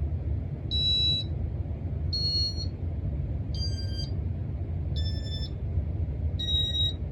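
Casablanca Stealth ceiling fan's IntelliTouch control beeping five times, short electronic beeps about every second and a half at slightly shifting pitches, over the low steady hum of the running fan. The fan is cycling through its speeds by itself far too fast on a W11 wall control, a fault that the owner says definitely shouldn't be happening.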